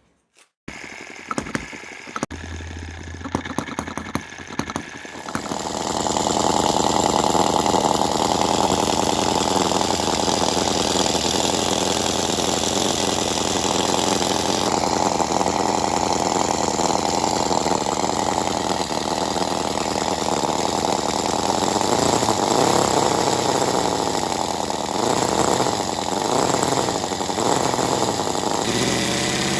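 Small model engine being started: a few seconds of clicking and a low hum, then it catches about five seconds in and runs steadily, its pitch wavering a little near the end.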